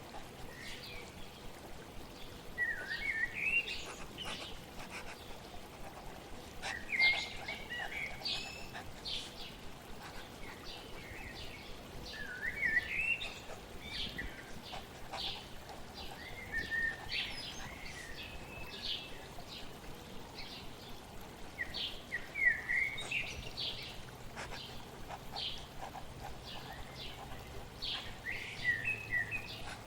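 A songbird singing short warbled phrases, one every five seconds or so, with scattered chirps in between, over a faint steady hiss of flowing water.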